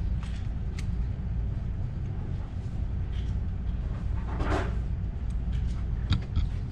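Steady low rumble with a few light clicks, and a brief faint sound like a distant voice about four and a half seconds in.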